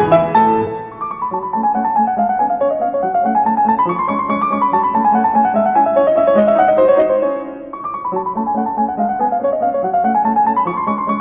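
Piano music: quick runs of notes falling and rising again in repeated waves over steadily repeated low notes, easing off briefly about two-thirds of the way through before the pattern starts again.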